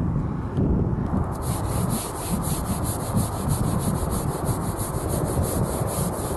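Scrubbing strokes on a rubber RV roof: a brisk, even back-and-forth rubbing that starts about a second in.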